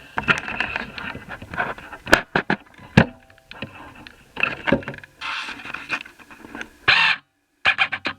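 Handling of small plastic and metal laptop parts: a quick run of sharp clicks, taps and scrapes, with a short pause about seven seconds in.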